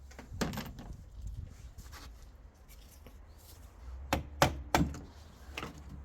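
A few sharp knocks and clunks of hard objects being handled, a group about half a second in and three loud ones in quick succession about four seconds in, over a low steady hum.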